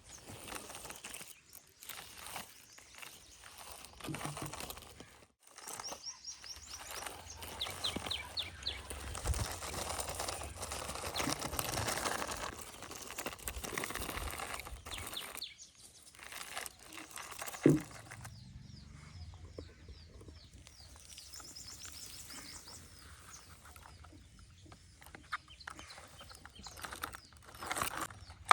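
Outdoor ambience of small birds chirping in repeated quick strokes over a rustling background and a faint low hum, with a single sharp knock about eighteen seconds in.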